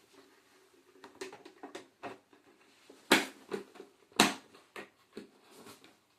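Sharp plastic clicks and knocks of a motorcycle helmet's visor being worked onto its hinge mount, with two loud snaps about a second apart and several lighter clicks around them.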